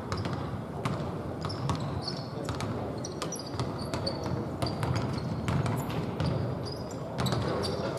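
A basketball bouncing on a court during play: many sharp, irregular knocks, with short high squeaks in between.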